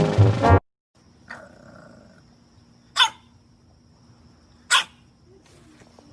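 A dog barks twice, two short sharp barks about a second and a half apart, over a faint steady hum. Brass music cuts off suddenly just before.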